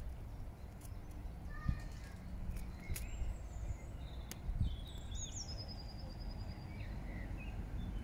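Outdoor ambience with a steady low rumble and songbirds chirping now and then. About five seconds in, a bird gives a short, rapid trill of high notes.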